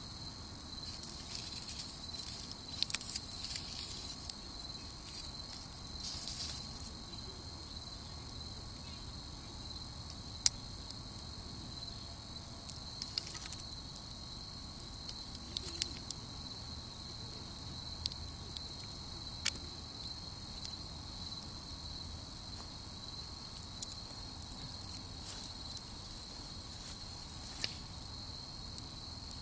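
Crickets chirring in a steady high trill, with scattered sharp pops and crackles from a wood campfire.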